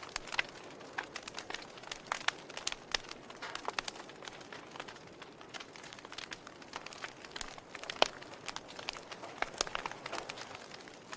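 A fire crackling, with irregular sharp pops over a soft steady hiss; the loudest pop comes about eight seconds in.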